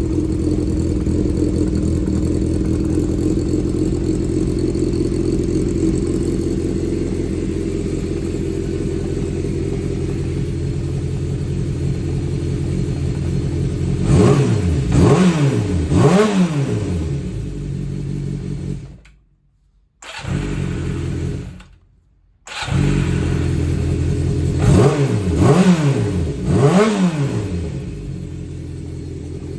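Yamaha XJ400's air-cooled inline-four engine idling steadily, then blipped three times in quick succession, each rev rising and falling back to idle. After two short gaps in the sound, it is blipped three more times and settles back to idle.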